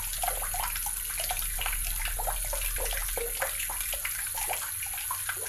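Tap water running steadily, splashing into a basin with a constant rush of small splashes.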